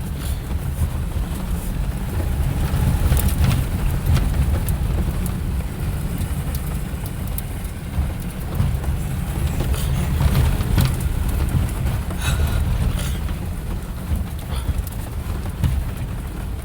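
Vehicle cabin rumble while driving slowly over a rough off-road trail, with scattered clunks and rattles as it goes over bumps.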